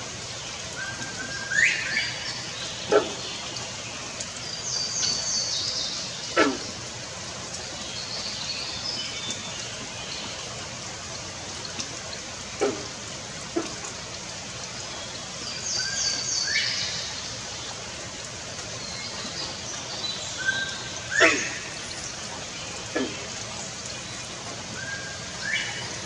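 Outdoor ambience of a songbird repeating a short song phrase several times, a flat note rising into higher notes. Brief sharp downward-sweeping sounds come every few seconds over a steady background hiss.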